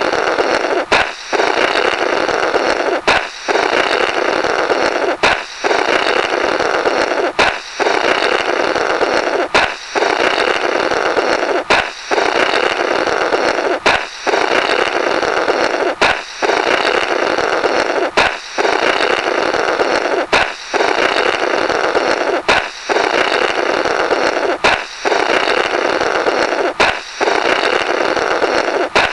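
Comical 'blorrrt' sound effect: a balloon pops with a sharp crack, then someone blows a raspy, buzzing blast through the burst rubber for about two seconds. The pop and blow repeat back to back about every two seconds.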